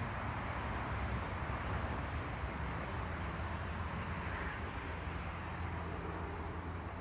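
Steady outdoor background noise with a low hum underneath and scattered faint, brief high clicks.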